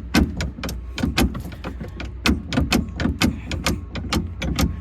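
Repeated sharp clicks and clunks, several a second and irregular, from the range and gear shift levers being worked in the cab of a John Deere 6850 articulating tractor, over a steady low rumble.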